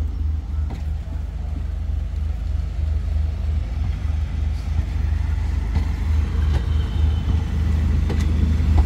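Thai passenger train carriages rolling slowly past as the train pulls away: a steady low rumble that grows a little louder toward the end, with a few faint clicks.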